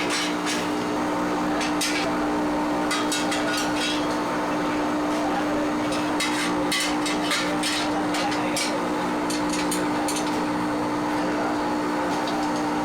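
Factory machinery running with a steady hum, with irregular clattering knocks and clicks over it.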